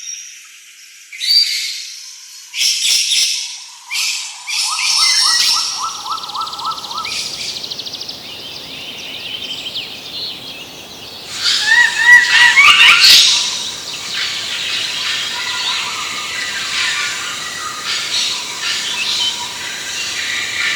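Birds calling and chirping in short bursts, with a rapid pulsing call from about four seconds in and a louder flurry of calls near twelve seconds. After that a steadier chorus of chirps carries on.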